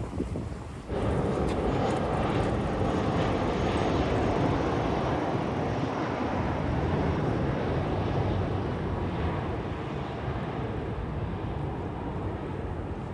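Aircraft engine noise from a passing airplane: a steady, loud rush that starts abruptly about a second in, is strongest a few seconds later and slowly fades.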